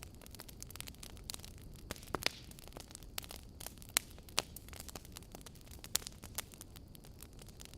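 Wood fire burning in a fireplace: irregular crackling with sharp pops, a few louder ones about two, four and six seconds in, over a low steady rumble.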